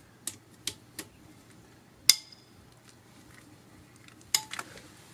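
Socket and extension clinking as a bolt on a BMW M54 engine is loosened: a few light metal clicks, then one sharp metallic crack with a short ring about two seconds in as the bolt breaks loose, and a quick cluster of clinks near the end.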